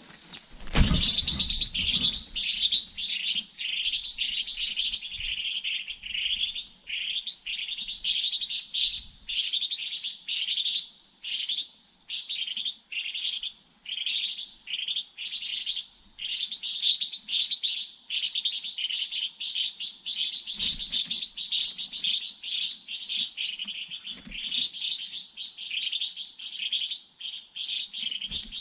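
Small birds chirping in a long, unbroken run of high, quickly repeated calls, one or two each second. A loud low thump sounds near the start.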